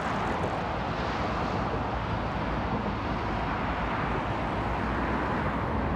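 Steady running noise of a train in motion, heard from inside the carriage: an even rush with a low rumble underneath.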